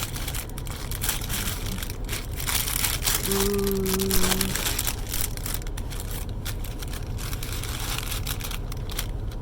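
Packaging being handled, crinkling and crackling in short irregular bursts, with a steady low hum underneath.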